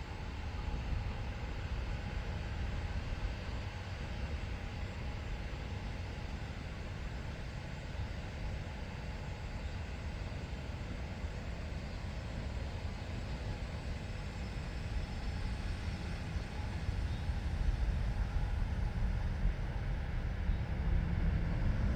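Boeing 737-900's CFM56 jet engines at takeoff power, a steady low rumble that grows louder over the last several seconds.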